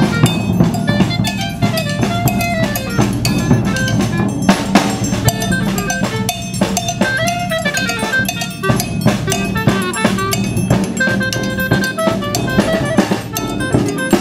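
Music led by a drum kit playing a busy beat, with bass and melodic instrument lines over it.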